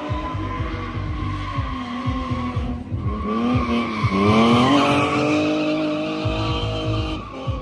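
Drift car's engine revving hard, its pitch dropping and climbing back up twice, a little after three and four seconds in, with tyres squealing and skidding; loudest about four to five seconds in.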